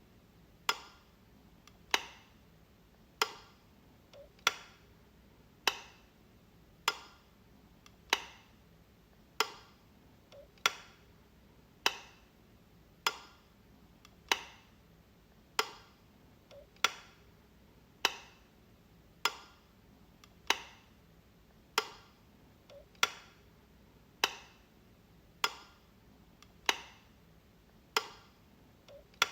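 Wall light switch flicked over and over, one sharp click about every 1.2 seconds, each with a short ring-out.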